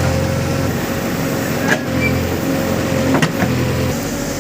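JCB backhoe loader's diesel engine running with a steady whine over it, and two sharp knocks, about two and three seconds in.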